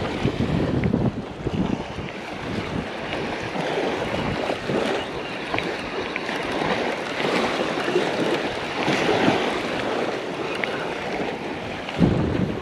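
Surf washing onto the beach in a strong wind, with gusts buffeting the microphone, one hitting hard near the end.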